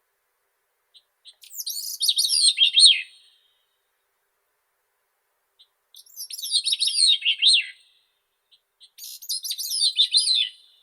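Grey-cheeked thrush singing three thin, high, warbled song phrases about two seconds long, the first starting just over a second in. Each phrase slides downward in pitch toward its end.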